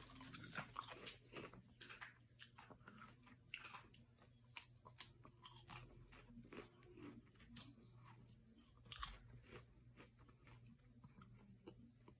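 A person biting and chewing crunchy spicy Rap Snacks chips close to the microphone: irregular crisp crunches, with a few sharper bites standing out, under a faint steady low hum.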